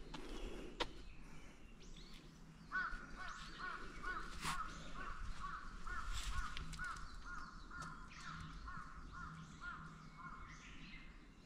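A bird calling a long run of evenly spaced, repeated notes, about two or three a second, starting about three seconds in and stopping near the end.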